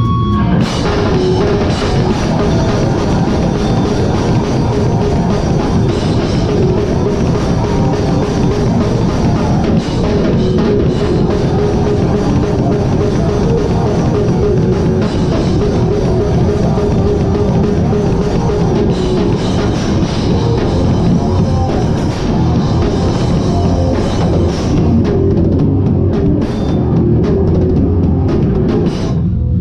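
Hardcore band playing live at full volume, with the drum kit loud and close from the drummer's own position.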